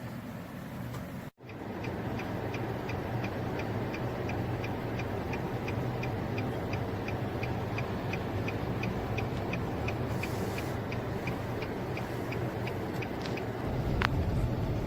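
Inside a car, the engine hums low under a steady clicking about three times a second, the sound of the indicator relay. Near the end the engine rumble grows louder.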